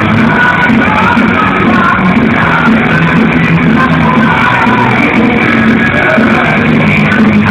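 Live heavy metal band playing loudly, with distorted guitars, drums and a high sung vocal line, recorded from the audience in a large hall, the sound heavily compressed and muffled.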